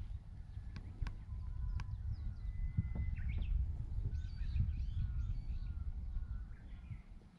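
Birds calling and singing, several short whistled and chirping calls, including one held whistle that breaks into quick higher notes. Underneath is a steady low rumble.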